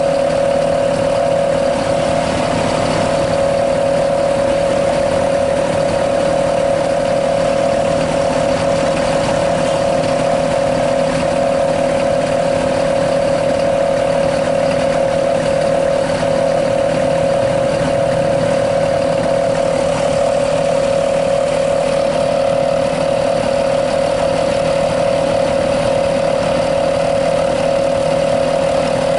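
Howling 'wolf' exhaust (knalpot srigala) on an ALS long-distance bus, holding one loud, steady, unchanging tone over the running engine.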